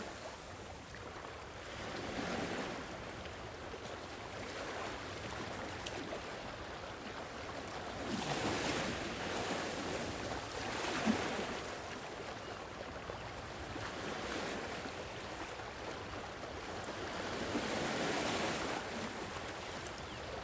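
Gentle sea waves washing on a shore, surging and falling back every few seconds.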